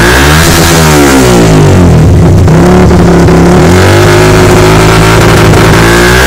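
Yamaha FZ150's single-cylinder four-stroke engine revving through a KOZI III aftermarket exhaust muffler, the revs rising and falling and held steadier partway through before climbing again near the end. Loud throughout.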